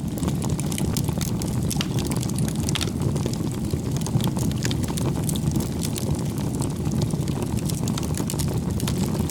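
Wood bonfire burning: a steady low rumble of flames with many small, irregular crackles and pops from the burning wood.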